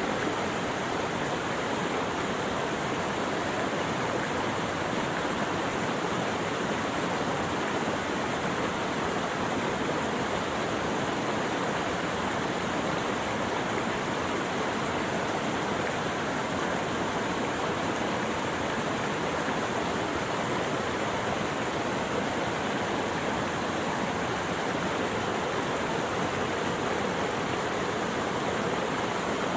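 Steady rushing of flowing water, an even, unbroken noise with no birds or other events heard over it.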